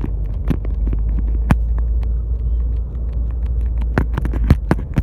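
Steady low rumble of a moving car heard from inside the cabin, with many sharp clicks and knocks, the loudest about four to five seconds in, from the camera being handled close to the microphone.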